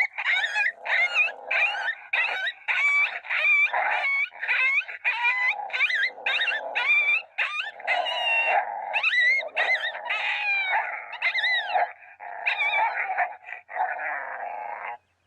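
Coyote fight sound (MFK Pound Town) played from an electronic predator caller: a quick run of yelps and yips, rising and falling in pitch, over a continuous snarling underneath.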